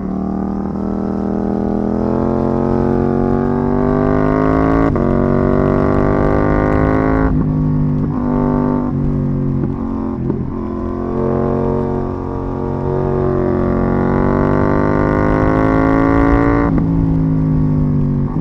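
KTM 790 Duke's parallel-twin engine through an IXRace MK2 exhaust, pulling under acceleration with the note rising steadily and dropping sharply at gear changes about five seconds in and again near the end. In the middle the note breaks up and dips briefly before rising again.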